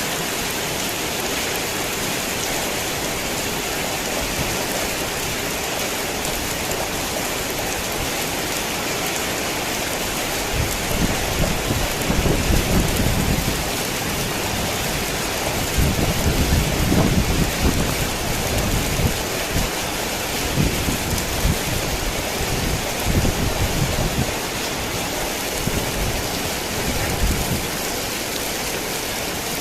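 Heavy rain falling steadily, with low rumbles of thunder coming and going through the middle.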